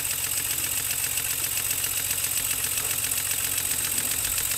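Small six-cylinder radial model steam engine running on compressed air at low pressure, a fast, even beat of exhaust puffs with a steady high hiss.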